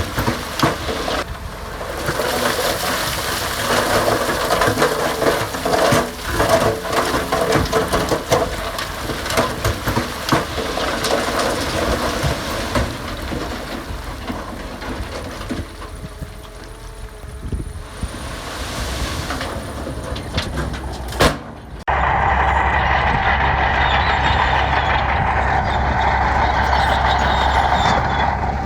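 Heavy diesel earthmoving machinery working gravel, with crunching stone and clanking steel over the engine. About three-quarters of the way through, a sharp click, then the sound changes abruptly to a steady, louder diesel engine drone.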